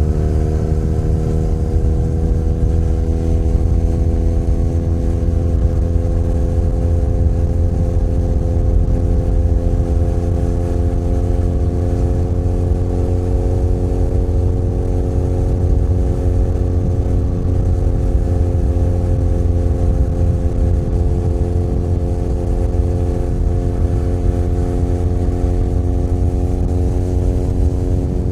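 Benelli Leoncino 500 Trail's parallel-twin engine pulling at cruising speed, its pitch rising slowly over roughly the first half and then holding steady, over a deep steady rumble.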